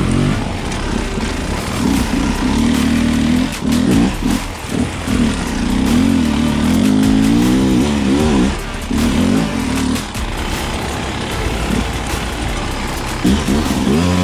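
Dirt bike engine revving up and down as it is ridden, its pitch rising and falling repeatedly, with rushing wind and ride noise on the microphone.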